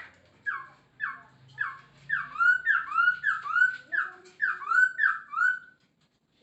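Masked laughingthrush (poksay Hongkong) singing a series of whistled notes. It starts with single falling notes about two a second, then from about two seconds in gives louder paired notes that fall then rise, and stops near the end.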